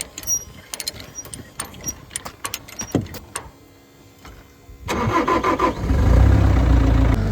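A run of sharp clicks and knocks, then about five seconds in a skid steer's engine cranks, catches and settles into a steady idle.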